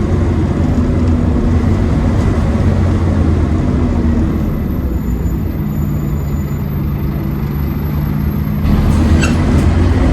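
Scania OmniCity bus engine running, pretty loud, the vacuum-cleaner-like 'hoover' sound these buses are known for. A faint high whistle runs through the middle, and the sound gets louder near the end.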